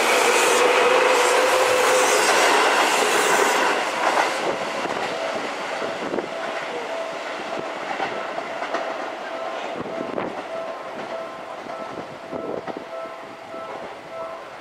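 Seibu 2000 series electric train running close past on the track with wheel clatter. It is loud for the first four seconds, then fades as it moves away. From about six seconds in, a short tone repeats at an even pace in the background.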